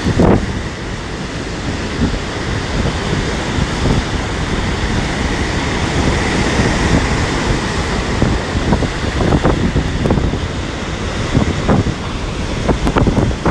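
Storm surf on the sea washing and breaking, mixed with strong gusty wind buffeting the microphone, the loudness surging and easing.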